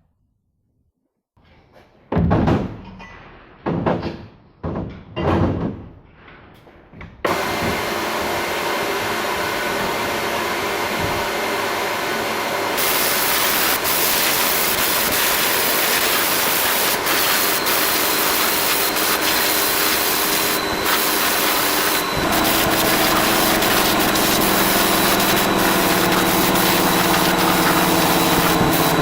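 A few separate knocks, then a loud steady workshop machine starts up: a hissing rush with a motor's steady hum under it, changing pitch twice.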